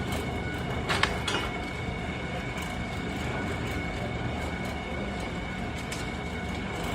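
Workshop machinery running steadily, with a constant high whine over a low rumble; two sharp metallic clicks about a second in.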